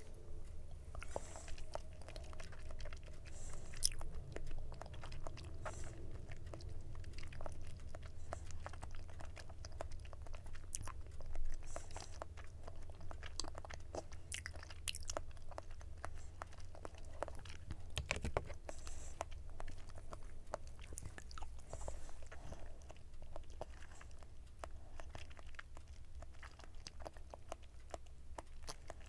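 A person chewing a mouthful of konjac jelly balls with the mouth closed: steady chewing with many small sharp clicks, a few of them louder.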